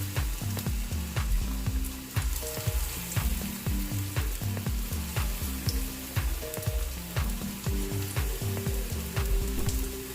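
Flour-coated chicken pieces sizzling as they deep-fry in hot oil, over background music with a steady beat.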